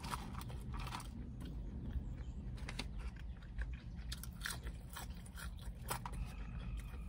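Close-up chewing of a fried chicken sandwich and french fries, with scattered small crunchy clicks from the mouth.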